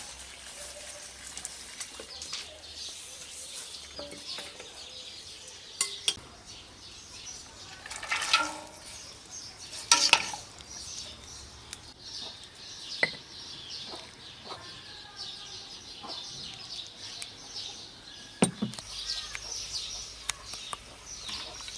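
Scattered clinks and knocks of cooking utensils against pots and dishes, with chickens clucking and small birds calling in the background.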